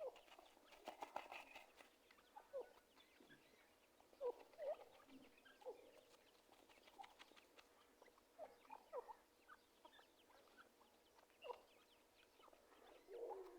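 Teetar partridge giving faint, short squeaky chirps at irregular intervals, with a cluster of small clicks about a second in.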